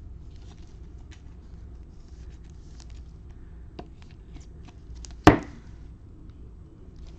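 Trading cards being handled and slipped into plastic sleeves: faint rustles and small clicks, with one sharp knock a little after five seconds in.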